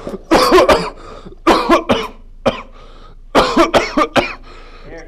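A man coughing hard in a fit: several bouts of harsh coughs in quick succession, with short pauses between them.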